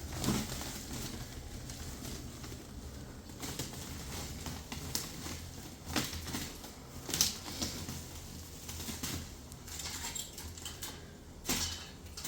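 Scattered light knocks and clicks of things being handled, a few sharper ones standing out, over a low steady rumble.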